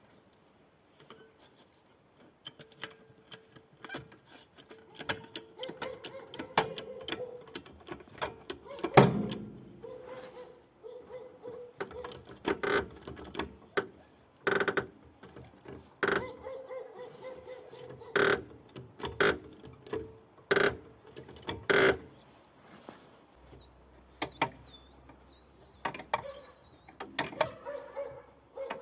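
Hand-tool work on a car's front suspension: metal clanking and clicking, ratchet-like in places. Through the middle comes a series of sharp metallic knocks roughly every two seconds.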